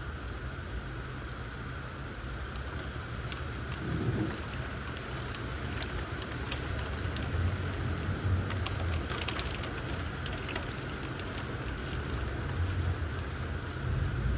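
Steady rain falling, with scattered drops ticking and a few low rumbles of thunder swelling and fading.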